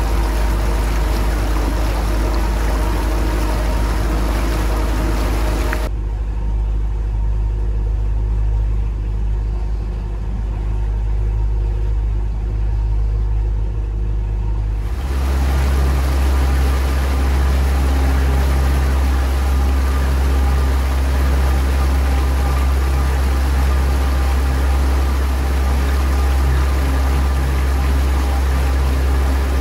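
Tohatsu MFS 140 four-stroke, four-cylinder outboard motor running steadily at about 1500 rpm at slow displacement speed, with its wake rushing behind the boat. The sound is muffled for several seconds partway through. About halfway through it settles at about 2000 rpm, and its low drone grows stronger.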